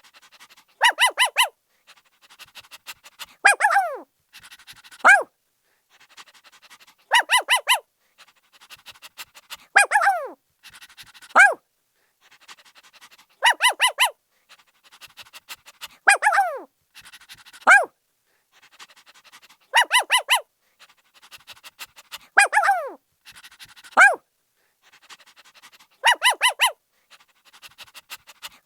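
Puppy barking in a repeating cycle about every six seconds: a quick run of three or four high yips, a longer yelp that falls in pitch, then one short bark. Faint panting fills the gaps between the barks.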